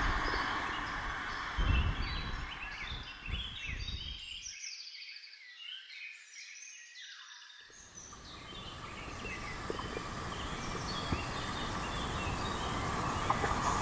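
Passenger train rumbling away on the rails, fading with a thump about two seconds in, while birds chirp. After a lull with no low sound, the low rumble of the next train approaching from far off slowly builds.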